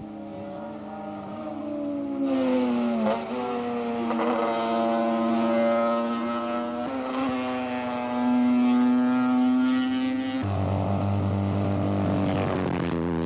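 Racing superbike motorcycle engines at high revs, several heard at once, their pitch sweeping up and down and dropping as bikes pass. The sound changes abruptly a few times.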